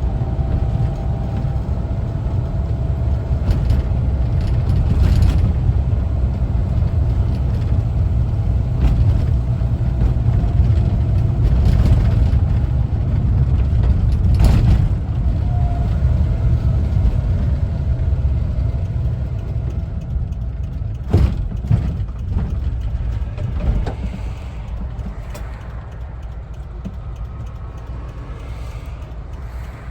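A 1974 Volkswagen Westfalia camper van's air-cooled engine and road noise while driving: a steady low drone and rumble, with a few sharp knocks or rattles around the middle. It gets quieter in the last few seconds.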